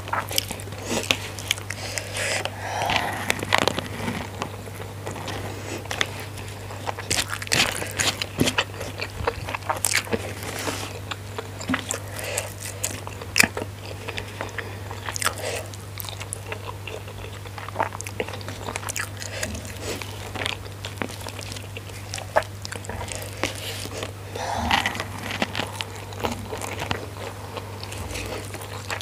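Close-miked eating: a person chewing mouthfuls of nasi padang, with many sharp crunches and wet mouth clicks, under a steady low hum.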